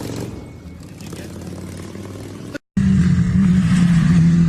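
A motorcycle engine running, then after a sudden cut a much louder engine held at steady high revs, its pitch dipping slightly for a moment.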